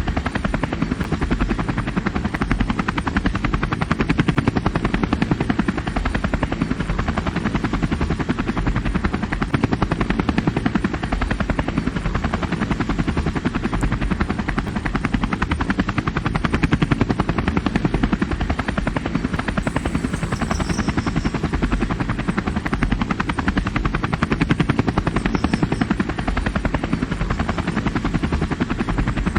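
Helicopter flying low, its rotor blades chopping steadily and quickly, swelling and easing slightly in loudness as it moves.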